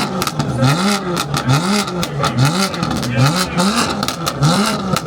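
Car engine being revved in quick repeated blips, its pitch rising and falling about twice a second, with sharp clicks and pops throughout.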